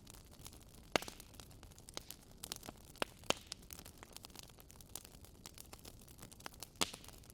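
Wood fire burning in a fireplace: irregular crackling and popping of the logs over a low steady hiss, with sharper pops about a second in, around three seconds in and near the end.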